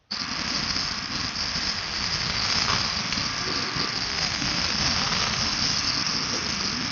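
A sports car's engine and exhaust running loudly, a rough, noisy sound without a clear pitch, heard through a played video. It starts abruptly and stays steady.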